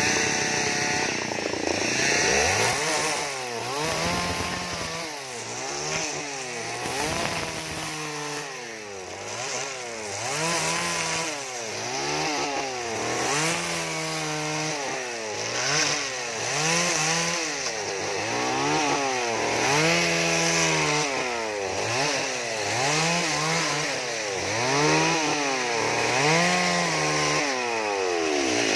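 Two-stroke chainsaw carving wood, its engine revving up and dropping back over and over, about once every second or so, as the throttle is worked through short cuts.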